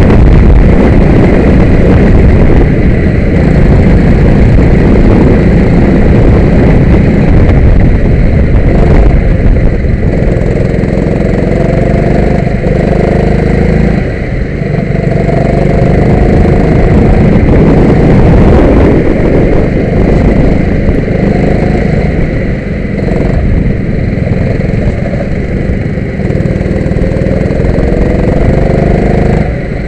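Go-kart engine running hard, its pitch rising again and again as it accelerates, over a heavy continuous rumble.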